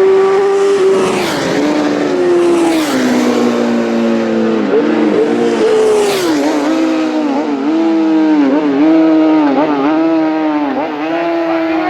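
Racing motorcycles at full throttle on a road-racing course, their engines screaming through a series of quick gear changes, each marked by a sharp dip in pitch. More than one bike is heard, with a rushing sound as they pass close.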